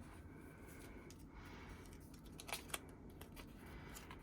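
Faint handling of album inclusions, paper cards being moved, with a few light clicks, two of them about two and a half seconds in.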